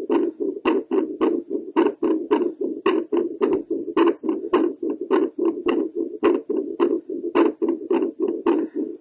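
Home fetal doppler amplifying a woman's heartbeat through the chest: a steady low whooshing under sharp valve clicks, two to three a second in a quick, uneven rhythm. The heart is beating fast after squats.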